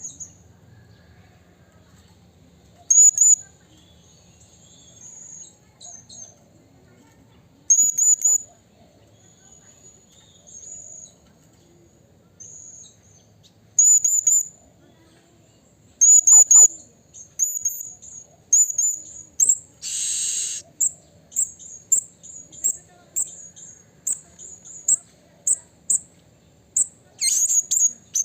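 Blue-crowned hanging parrot (serindit) giving short, very high, shrill calls, at first one every few seconds, then in a quicker run of calls through the last third. A brief hiss sounds about two-thirds of the way in.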